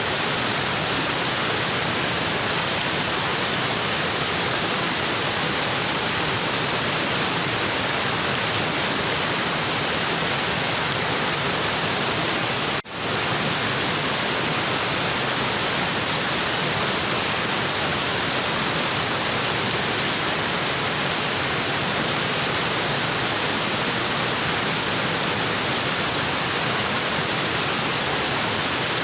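Waterfall water falling onto rocks, a steady full rushing. It drops out for an instant about halfway through.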